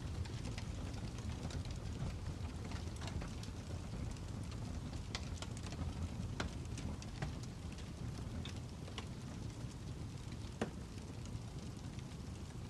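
Fire crackling: a steady low rumble with scattered, irregular sharp pops, the loudest about ten and a half seconds in.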